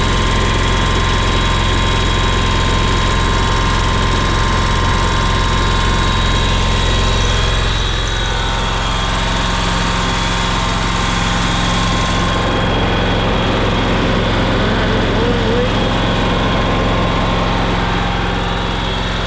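John Deere Z910A zero-turn mower engine running steadily just after an oil change, circulating the new oil and filling the new filter. About eight seconds in its note changes and drops slightly, as the engine speed shifts.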